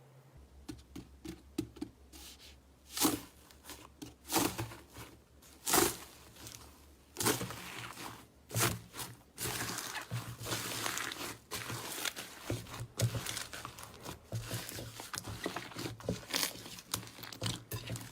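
Slime being squeezed and worked by hand, giving irregular crackling and popping, with several louder pops in the first half and denser, steadier crackling later on.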